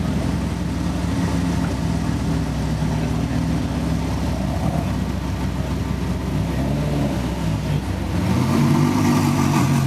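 Audi R8's V10 engine running steadily at idle. A little after eight seconds in, its note shifts and grows slightly louder.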